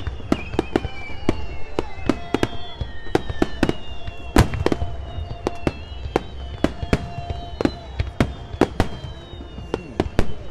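Aerial fireworks bursting in a dense barrage: many sharp bangs and cracks, several a second, the loudest about four seconds in, over a steady low rumble.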